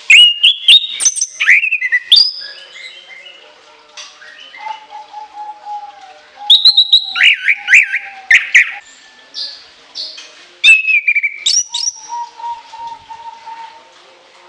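Chestnut-capped thrush (anis kembang) singing in three loud bursts of shrill, high whistles and quick runs of notes, near the start, about six seconds in and about ten seconds in. Quieter, lower notes carry on between the bursts.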